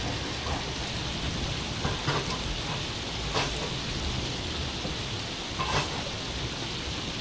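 Steady rain hissing down on a boat, with a few sharper drop hits close by.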